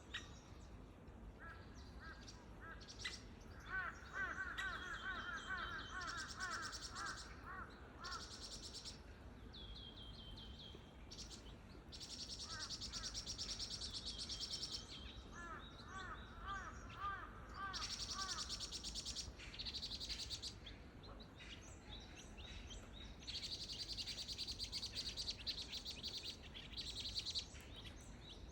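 Birds calling. There are quick runs of rapid, repeated chirps, twice, and several stretches of high, buzzy, chattering calls that start and stop.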